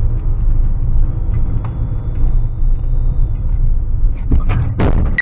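Car driving, recorded by a dashcam: a loud, steady, deep road-and-engine rumble, with a short higher sound near the end before it cuts off suddenly.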